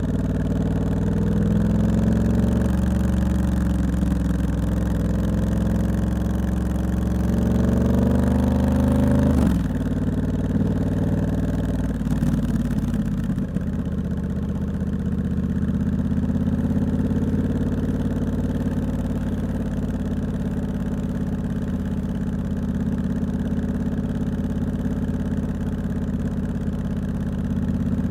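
Triumph Scrambler 1200X's 1200 cc parallel-twin engine, loud through its aftermarket Hitchcox exhaust, pulling with its pitch rising as the bike accelerates. About nine seconds in, the throttle closes and the engine falls away, settling a few seconds later into a steady low beat near idle.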